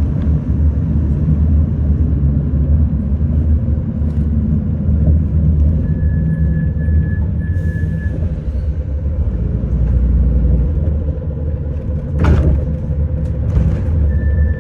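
City bus running, heard from inside the cabin: a steady low rumble of engine and road noise. A thin high tone sounds in short dashes about six seconds in and starts again near the end, and there is a sharp knock about twelve seconds in.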